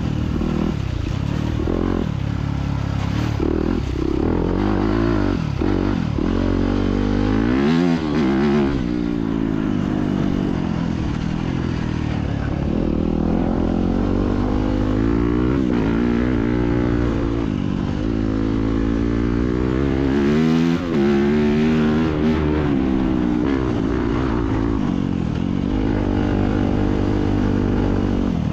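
Four-stroke dirt bike engine being ridden, its pitch rising and falling again and again as the throttle is opened and closed.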